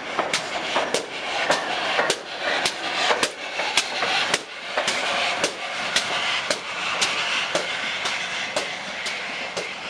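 Train wheels clicking over rail joints in a steady rhythm of about two clicks a second, over a continuous hiss of running noise.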